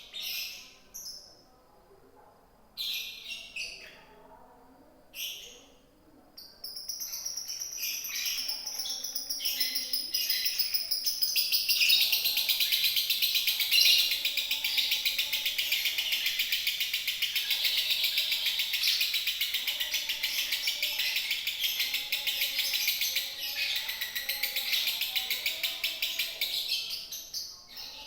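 Lovebird chattering: a few short chirps, then a long, rapid, unbroken trilling chatter that builds from about seven seconds in and runs for about twenty seconds before breaking off near the end.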